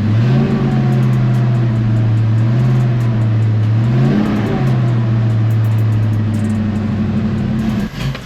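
Car engine just after a very cold start, running unevenly: the revs climb at the start, sag and rise again about halfway, then hold before falling away sharply near the end. It runs rough and not happy in the cold, close to dying.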